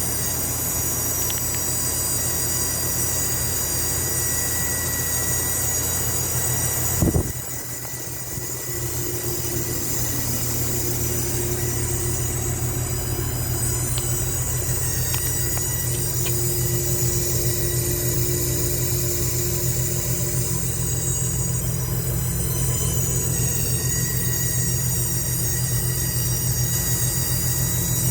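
Goodman AC condenser running with a steady low hum and a high-pitched squeal over it. About seven seconds in there is a brief thump, the sound dips for a moment, then builds back. The noise goes away when the coil is cooled with water, and the owner suspects the valving or the compressor rather than the fan.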